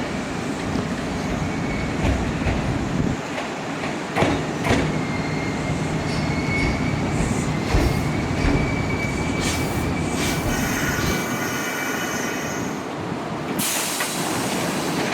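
Kintetsu electric commuter train rolling on the rails with a thin wheel or brake squeal and knocks over the rail joints, then a short hiss near the end.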